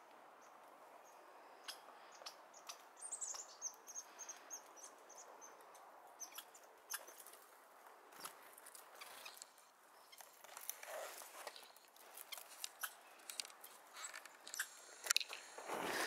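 Faint, irregular taps and clicks throughout. About three seconds in, a small bird gives a brief, rapid run of high notes that falls slightly. Near the end comes a louder thump and rustle.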